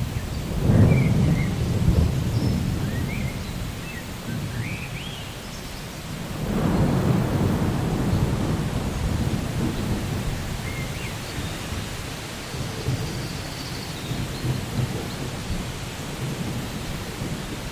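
Steady rain with two rolls of thunder, the first about a second in and the second about six and a half seconds in, each rumbling low and then fading over several seconds.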